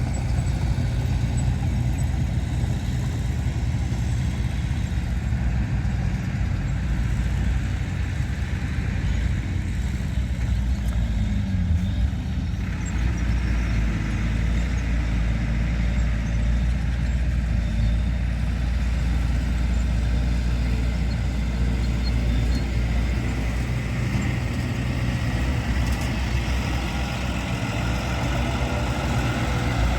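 Diesel engines of heavy earthmoving machinery running steadily with a deep, low drone.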